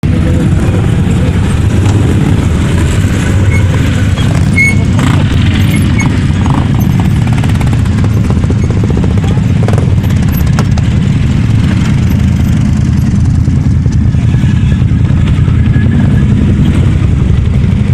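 Quad bike (ATV) engines running steadily during a race test run.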